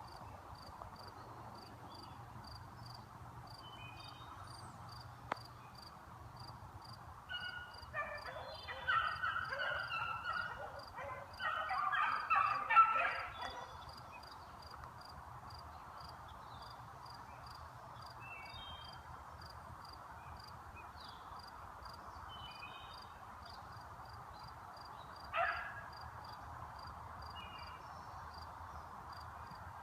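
A pack of beagles baying, several voices overlapping in a choppy burst for about six seconds, then one short bay near the end.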